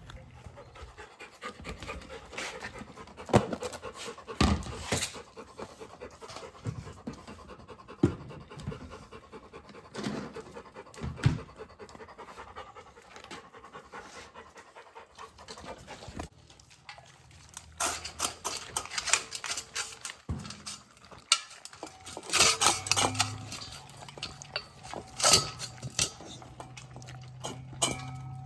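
A dog panting close by, with scattered knocks and clatter throughout, busier in the last third.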